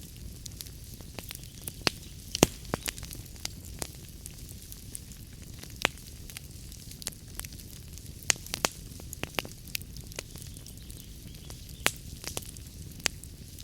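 Wood fire in a fireplace crackling: irregular sharp pops and snaps, a few louder ones about two and a half and eight seconds in, over a steady low rumble and soft hiss.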